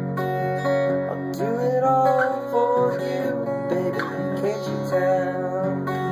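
Acoustic guitar playing an instrumental passage of steady, ringing notes, with a few notes bending in pitch around two seconds in.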